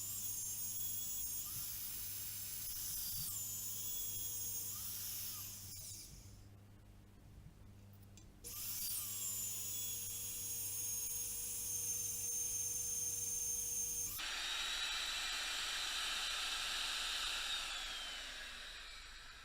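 High-pitched machine whine over a steady low hum, its pitch sliding up and down several times. It drops away about six seconds in, returns two seconds later, and changes to a rougher, noisier whine about fourteen seconds in before fading near the end.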